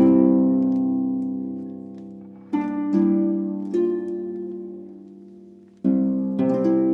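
Slow background music of plucked notes. Each note or chord starts sharply and rings out, fading before the next, with fresh plucks about every one to three seconds.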